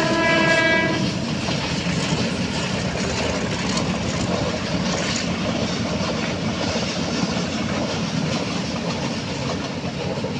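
A train horn sounding and stopping about a second in, over the steady rumble and clatter of a moving train.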